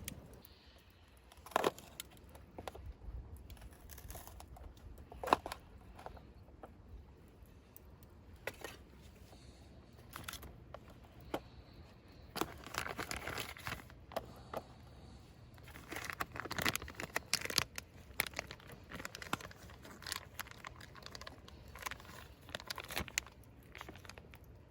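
Irregular clicks and knocks with stretches of crinkling and rustling, as of objects being handled at close range; the sharpest knocks come near the start and the busiest crinkling in the second half.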